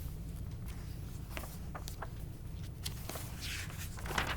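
Low steady hum with a few faint, scattered clicks and a soft rustle near the end.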